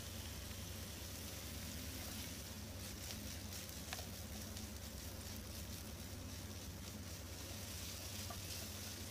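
Cubed liver and sliced peppers sizzling in a frying pan, with the crackling picking up from about two and a half seconds in as a spatula stirs them, and one sharp tick about four seconds in. A steady low hum runs underneath.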